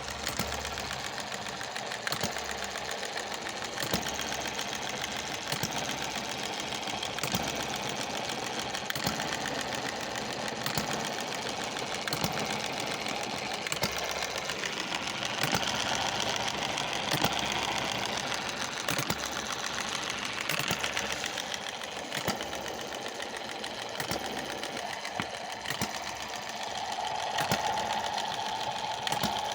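Small Chinese-made model hit-and-miss engine running: a steady mechanical clatter with sharper knocks at uneven intervals, roughly one or two a second, as it fires and coasts.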